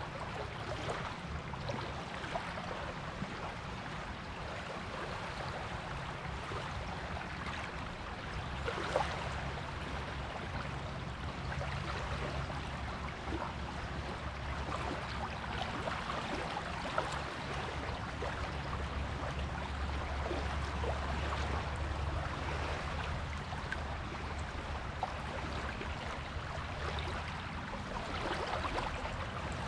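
Sea waves washing onto a beach: a continuous wash of surf with a low rumble that grows stronger about two-thirds of the way through.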